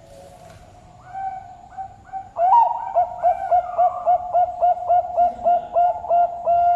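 Zebra dove (perkutut) singing its cooing song: a quieter opening phrase, then from about two and a half seconds in a loud, even run of short rolling coos, about three a second.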